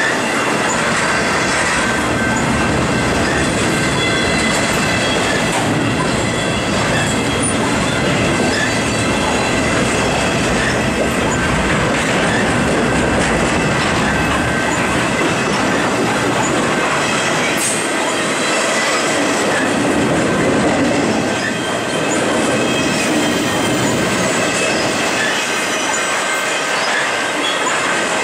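An intermodal freight train of semi-trailers on flatcars rolling past close by, with a steady, continuous rumble and clatter of wheels on rail and thin high-pitched tones riding over it.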